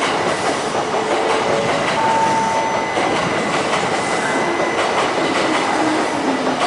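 E4 series Max double-deck Shinkansen train running at low speed, with a steady rumble of wheels on rail and brief thin squeals from the wheels.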